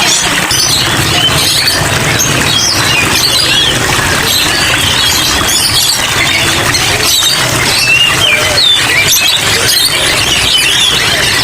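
Dense chorus of many small caged songbirds chirping and twittering at once, calls overlapping continuously, over a steady low hum.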